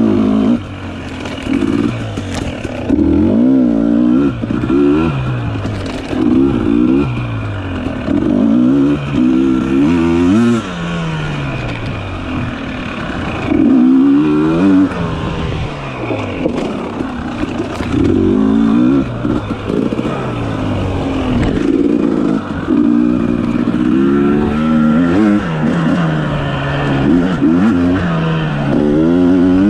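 Dirt bike engine revving up and falling off again and again as the throttle is opened and closed, the pitch rising and dropping every second or two.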